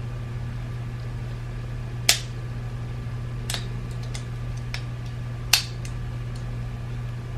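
Sharp plastic clicks from the parts of a BMW iDrive controller being handled and fitted back together: two loud clicks about three and a half seconds apart, with a few fainter ticks between, over a steady low hum.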